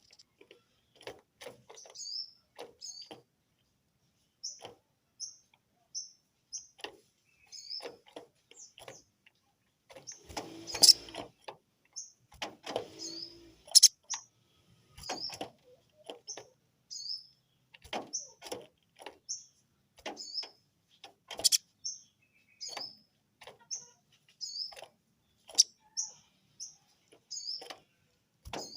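Sogon bird giving short, high chirps over and over, about one a second, in an agitated answer to a rival's call. Sharp clicks are scattered between the chirps, and there is a louder noisy clatter about a third of the way in.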